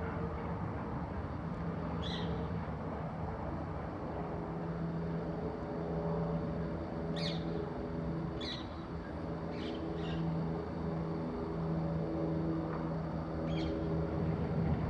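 An engine running steadily with a low, even drone, from the coal-handling work at the harbour. Short high bird calls sound about half a dozen times over it.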